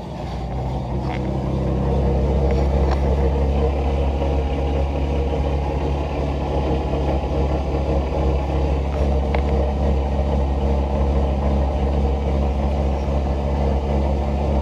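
Three-phase AC induction motor of an electric-converted BMW E46, driven by a home-built inverter, spinning the wheels through the gearbox: a steady low drone that builds over the first two seconds and then holds. It runs a little rough, which the owner puts down to the inverter's minimum slip frequency being set a little too high.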